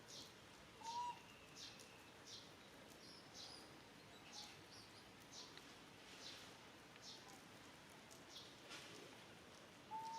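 Faint bird chirps: short high notes repeating about twice a second, with a short clear whistled note about a second in and again near the end.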